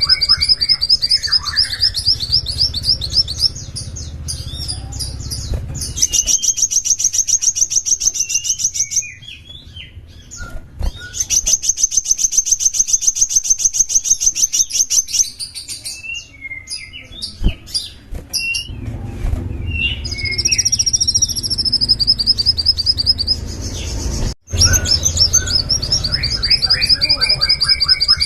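Small songbird singing long runs of rapid, high-pitched repeated notes like fast trills. The trills are broken by short quieter stretches of scattered chirps, and the song cuts off and resumes abruptly about three-quarters of the way through.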